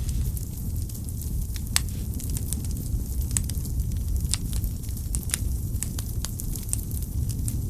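Wood fire burning in a fireplace: a steady low rumble of flames with scattered sharp crackles and pops from the firewood, one louder pop about two seconds in.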